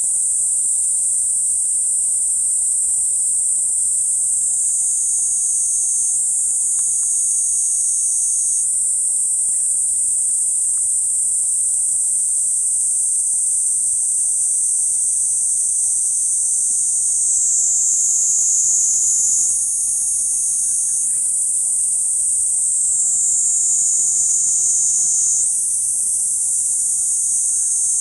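Kuroiwa's niinii cicada (Platypleura kuroiwae) singing: one unbroken, high-pitched buzzing drone. Several times its pitch slides a little lower, holds for a few seconds, then snaps back up.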